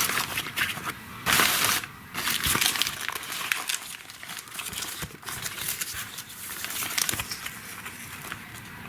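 Fireworks packaging being handled, crinkling and rustling in irregular bursts as items are taken out of the assortment box. A louder rustle comes about a second in and lasts about half a second.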